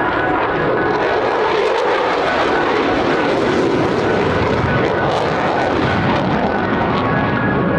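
Loud, steady jet noise from a maneuvering US Air Force F-16 Fighting Falcon, its high hiss growing brighter toward the middle and easing off near the end as the jet passes.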